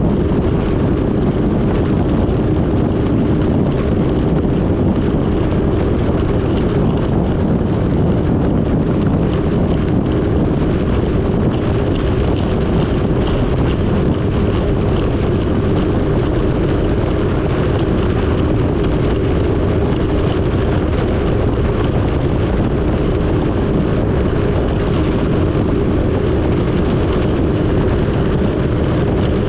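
1994 Yamaha Wave Raider jet ski's two-stroke engine running steadily under way, with wind buffeting the microphone.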